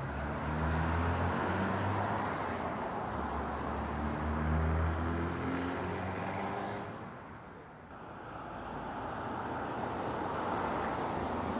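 Car engine running with road noise: a low engine hum that drops away briefly about seven seconds in, then a steady rush of tyre and road noise.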